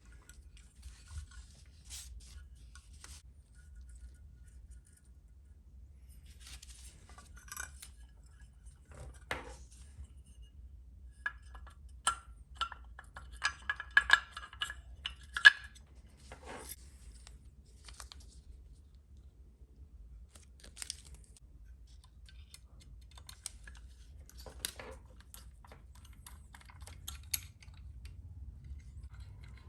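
Small hard kit parts being handled on a work surface: scattered light clicks and clinks, busiest and loudest around the middle, with a few short metallic rings.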